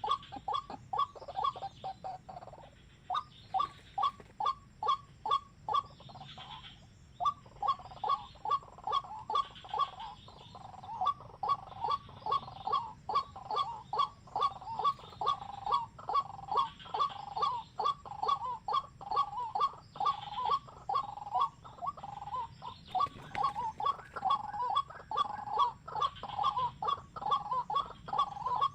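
A bird calling over and over: short sharp notes at about three to four a second, broken by a couple of brief pauses in the first seven seconds, then running on steadily.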